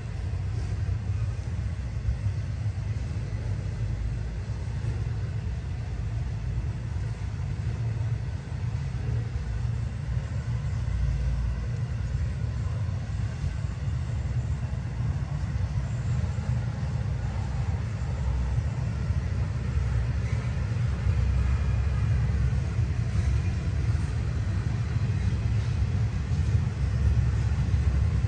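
Florida East Coast Railway freight train rolling past, its cars and wheels on the rails making a steady low rumble that grows somewhat louder near the end.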